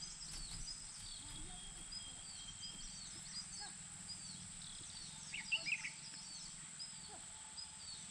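Small birds chirping: a short high call repeated about twice a second, with a brief cluster of louder chirps a little past the middle.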